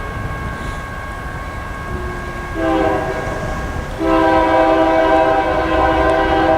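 Diesel freight locomotive's multi-chime air horn: a short blast, then a louder long blast held to the end, over the rumble of the approaching train.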